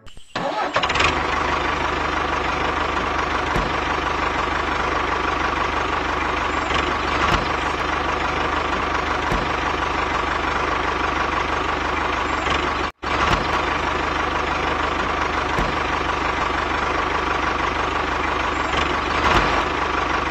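Small motor running steadily with an even mechanical drone and a steady whine, cutting out for an instant about 13 seconds in and then running on unchanged.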